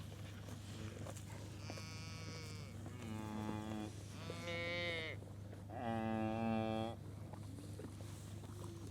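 Cattle mooing: four separate calls of about a second each, the first higher-pitched than the rest, over a steady low hum.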